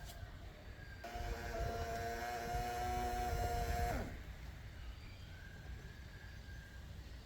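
Small battery-powered DC motor of a homemade mini fan whining at a steady pitch for about three seconds, then switched off about four seconds in, its pitch falling as it spins down.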